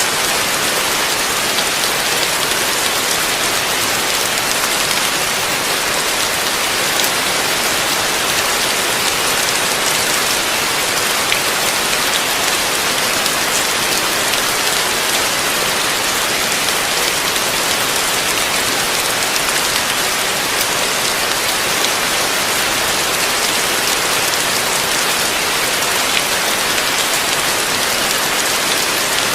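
Heavy rain falling steadily, a dense even hiss of rain on surfaces with scattered drop ticks.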